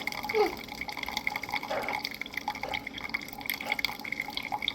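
Coffee trickling and dripping from a Keurig K-Iced single-serve brewer into a cup, a steady stream with irregular light drips.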